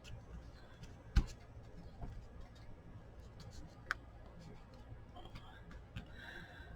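Scattered light taps and clicks of paper and craft supplies being handled while gluing a journal page. The sharpest is a knock about a second in, and there is a short soft rub near the end.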